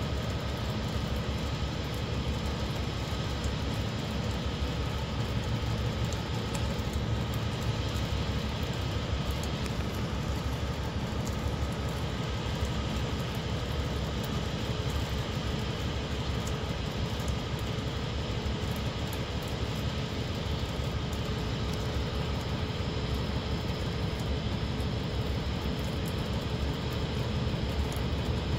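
Steady low rumble of trains in a rail yard, with a faint steady hum above it; no single event stands out.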